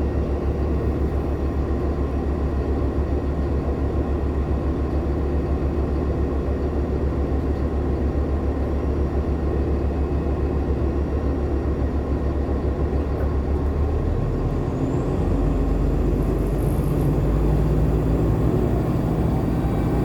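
Inside a Nova LFSA hybrid diesel-electric transit bus: a steady low rumble from the drivetrain while riding. About 14 s in the rumble changes and gets slightly louder, and faint tones rise in pitch as the bus picks up speed.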